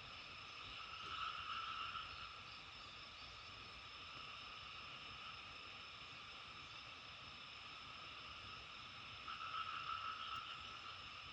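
Steady, faint chorus of calling frogs, swelling louder twice: once about a second in and again near the end.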